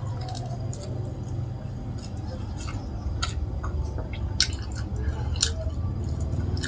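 A person chewing crispy fried catfish with open-mouthed, wet smacking, giving several sharp mouth clicks, over a steady low hum.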